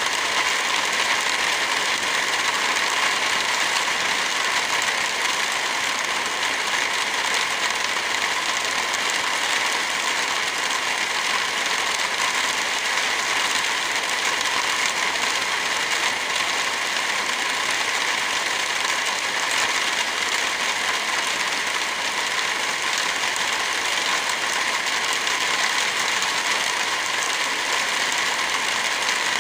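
Steady rain hiss mixed with a wood fire crackling, even and unchanging throughout.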